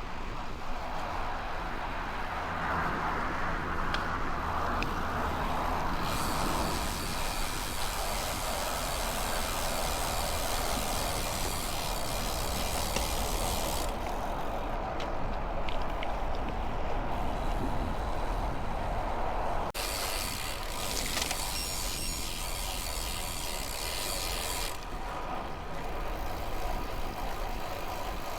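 Riding a bicycle: steady wind and road noise, with a fine high ticking in two longer stretches, typical of a bicycle freewheel clicking while coasting.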